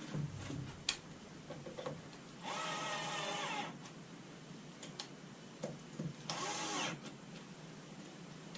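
Cordless power driver running in two short bursts, the first about a second long and the second shorter, with clicks and knocks of handling in between.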